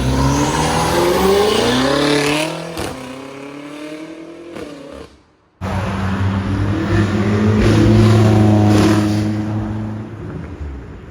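A car accelerating hard with its engine revving and its pitch rising, then a drop as it shifts. After a brief cut, another car engine accelerates loudly and passes, fading near the end.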